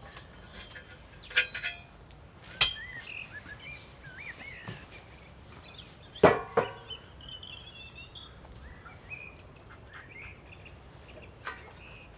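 A few scattered sharp knocks and clinks, the loudest a double knock about six seconds in. Birds chirp in the background.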